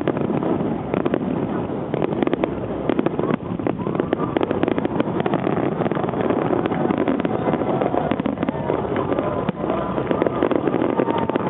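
Fireworks crackling and popping in rapid, dense clusters, with crowd voices rising over them in the second half.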